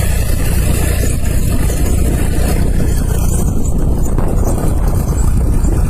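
Tractor engine running steadily while driving, a loud, constant low rumble.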